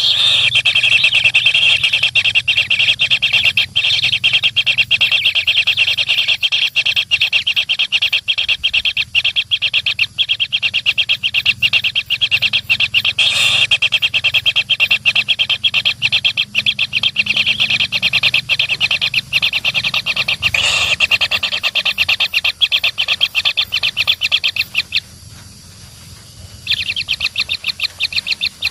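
Baby birds begging for food with rapid, continuous high-pitched chirping, which breaks off for about two seconds near the end and then resumes.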